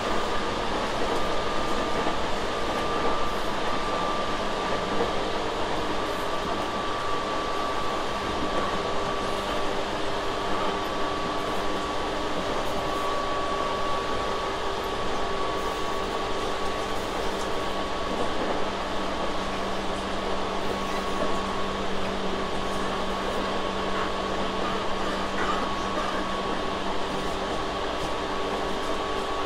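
Inside a Tobu 6050 series electric train car under way: a steady even rumble with a few steady humming and whining tones.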